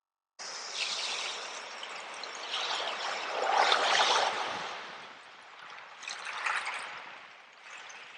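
Sea waves washing onto a shore, starting after a brief silence: one larger wave swells and breaks about four seconds in, then falls back, and a smaller one follows near the end.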